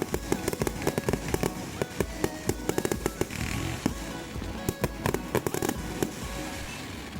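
Aerial fireworks going off in a rapid barrage of bangs and crackles, thinning out near the end, with background music laid over them.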